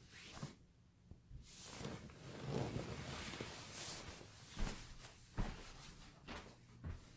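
Cut airplane parts being handled and shuffled on a table: a soft rustling for a few seconds, then several light knocks as pieces are set down.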